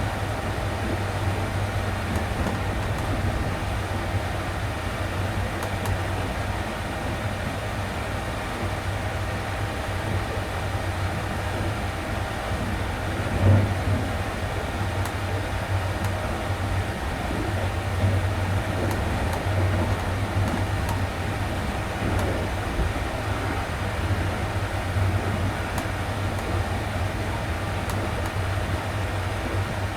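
Steady low rumble and hum of the Sunrise Izumo sleeper train heard from inside a compartment, with one brief knock about halfway through.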